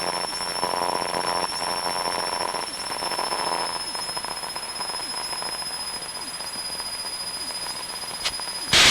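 Cabin noise of a Cessna 172 in flight: a steady engine and propeller drone with a thin, constant high whine over it. The droning tone weakens after about four seconds, and a sudden loud burst of noise comes in right at the end.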